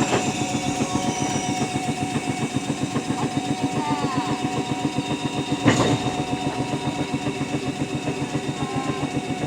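Jōmō Electric Railway DeHa 101, a vintage electric railcar, running while shunting. A fast, even chugging runs under a steady whine, with a short squeal about four seconds in and a single sharp clank near the middle.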